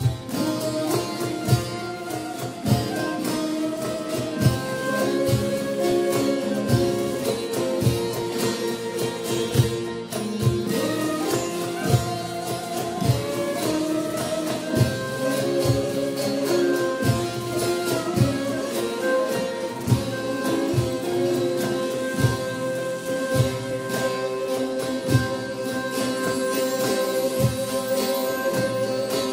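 Turkish folk music ensemble playing live, with plucked string instruments carrying the melody over a drum keeping a steady beat.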